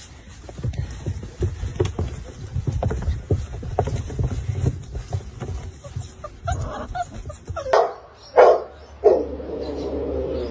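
A dog barks twice, loud and sharp, then makes a drawn-out call. Before the barks there is a stretch of soft, irregular knocking and rustling.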